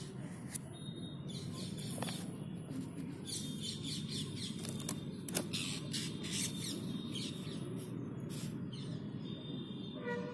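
Small birds chirping in short, scattered bursts over a steady low background rumble, with the chirps thickest in the middle stretch.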